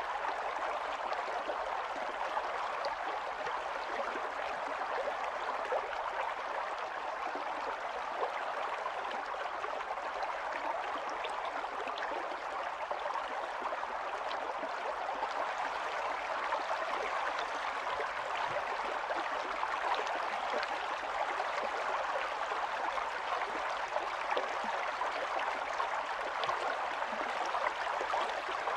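Small stream running over stones, a steady babble of water with many small splashes and trickles.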